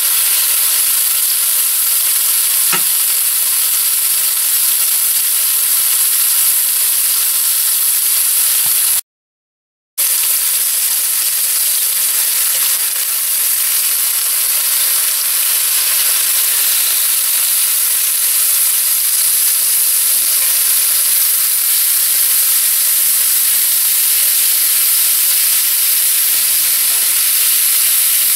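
Chicken breast pieces sizzling in hot oil in a cast iron skillet, a steady loud hiss. The sound cuts out completely for about a second about a third of the way in.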